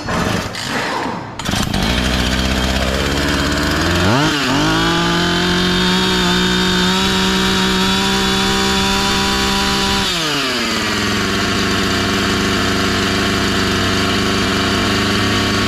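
Husqvarna 445 two-stroke chainsaw pull-started with the choke off: it catches after a pull on the starter cord, runs slowly, is revved up to high speed for about six seconds, then drops back to a steady idle.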